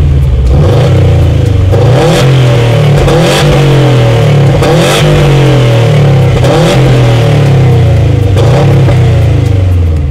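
High-performance car engine revving hard, its pitch rising and falling again and again.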